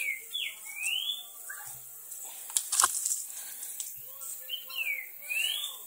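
A bird calls twice, about five seconds apart. Each call is a pair of whistled notes, one sliding down and one sliding back up.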